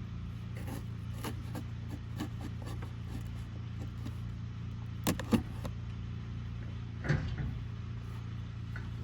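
Parts and packaging being handled, with a few knocks: two sharp knocks about five seconds in and a duller thump about seven seconds in, over a steady low hum.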